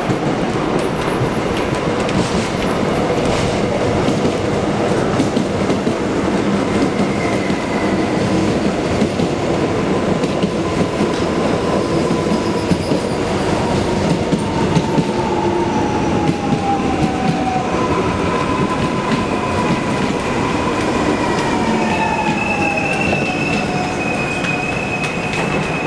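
Korail electric commuter train pulling in along a station platform, with steady wheel-on-rail noise. Over the second half an electric whine falls in pitch as the train slows, and near the end a steady high-pitched squeal sets in as it brakes.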